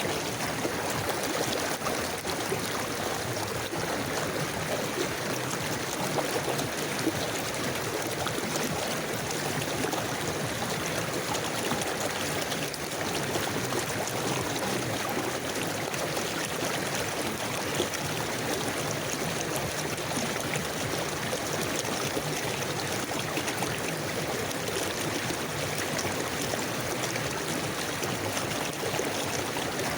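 A river flowing steadily, with a constant, even rush and trickle of water.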